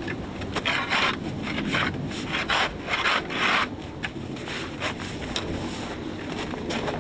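A blade rasping on wood in repeated hand strokes, about two a second, easing off to a few single strokes in the last few seconds.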